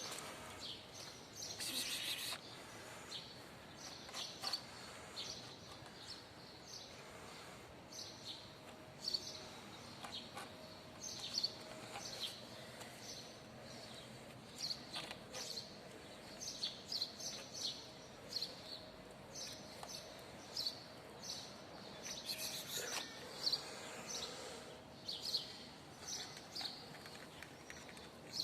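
Small birds chirping in short, repeated high notes, over steady outdoor background noise.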